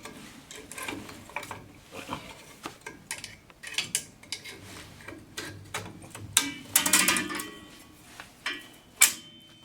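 Metal clinks and clicks of a drum brake spring tool and brake hardware being handled: a scatter of sharp taps, a busier clatter about two thirds of the way in, and one sharp clank near the end that leaves a faint ring.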